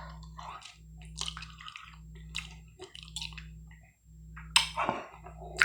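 Close-miked chewing and wet mouth sounds: irregular soft smacks and clicks, with a louder sniff-like breath about four and a half seconds in, over a steady low electrical hum.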